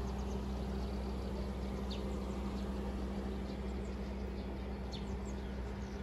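Outdoor ambience: a steady low hum with a few short, high bird chirps, about two and five seconds in.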